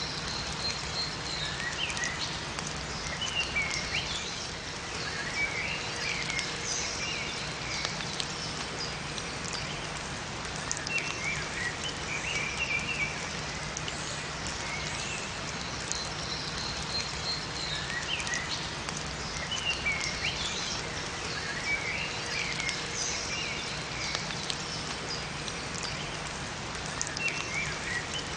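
Steady rain falling in a forest, with small songbirds chirping short, quick phrases that recur every few seconds over the rain.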